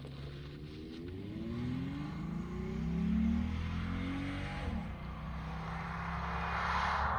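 2014 Ford Mustang on its stock exhaust, accelerating: the engine note climbs for about three seconds, drops suddenly a little past halfway, as at a gear change, then builds again.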